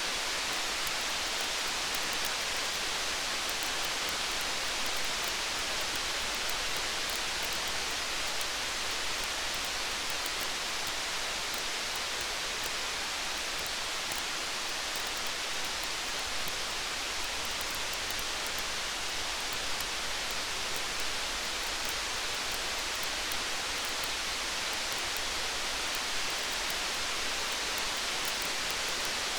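Steady rain, an even hiss, with faint small crackles of a campfire scattered through it.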